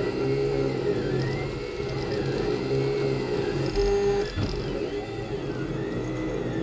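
Leapfrog Creatr 3D printer's stepper motors whining as the print head moves back and forth, the pitch rising and falling roughly once a second over a steady hum.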